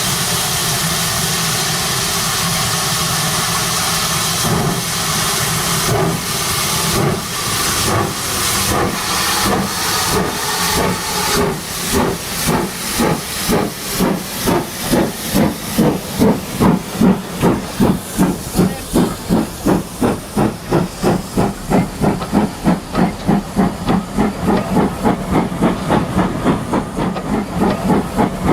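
Steam locomotive hissing steam, then exhaust chuffs starting about four seconds in and gradually quickening as it pulls away.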